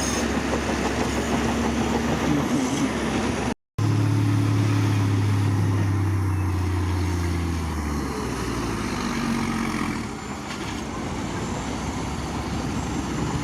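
Heavy diesel construction machinery running steadily, with the sound cutting out for an instant about three and a half seconds in. After the cut a low steady engine drone is strong for about four seconds, then fades into the general machine noise.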